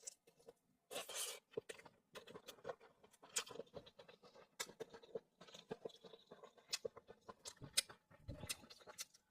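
A person eating seafood close to the microphone: scattered wet chewing clicks and mouth smacks, with a short rustling burst about a second in.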